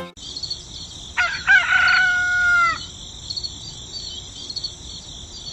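A rooster crowing once, starting about a second in: a long held call that drops off at the end. Under it runs a steady high chirring of insects.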